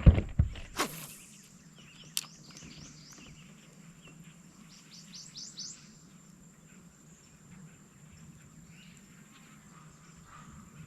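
Birds chirping, with a quick run of high chirps about five seconds in, over faint steady outdoor background. A few sharp knocks come right at the start.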